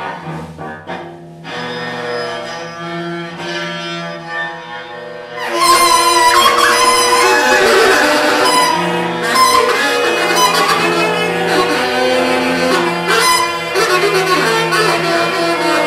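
Live free-improvised music: bowed cello holding sustained tones, then about five and a half seconds in the whole ensemble comes in much louder, with drums and tenor saxophone in a dense, clashing wall of sound.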